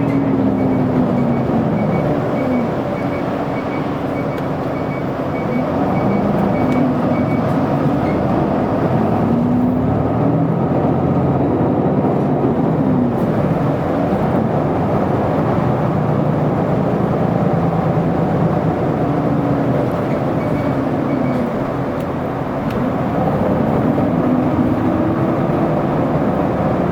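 Isuzu Erga city bus under way, heard from inside the cabin: the diesel engine's pitch rises and falls several times as the bus accelerates and shifts through its gears, over steady road and tyre noise. A faint regular ticking, about two a second, runs for the first several seconds and briefly again later on.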